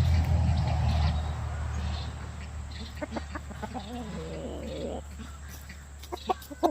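Domestic chickens clucking and calling, in short wavering notes. A low rumble on the microphone during the first couple of seconds.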